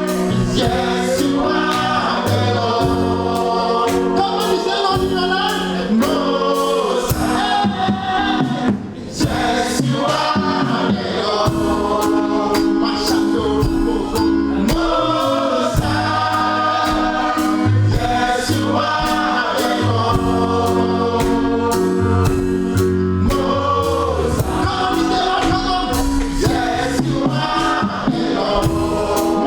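Gospel choir singing live over instrumental backing with a steady beat and a bass line.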